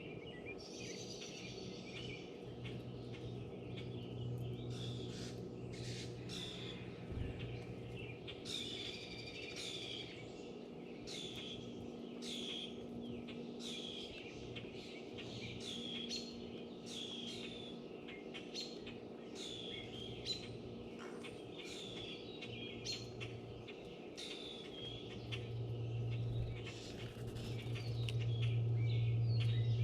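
Songbirds chirping and singing at a feeder: a steady string of short notes, each sweeping down in pitch, repeated every second or so. A low steady hum sits underneath and gets louder over the last few seconds.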